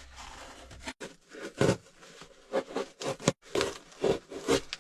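Cardboard box being handled and folded by hand: a string of irregular rubs, scrapes and light knocks.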